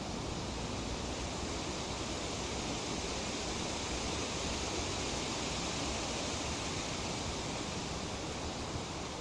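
A breeze rustling tree leaves: a steady, even hiss that swells a little partway through.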